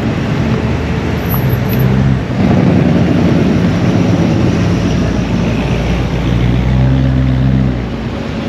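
Car engine running close by, growing louder and rougher about two seconds in, then settling back to a steady note that drops away near the end.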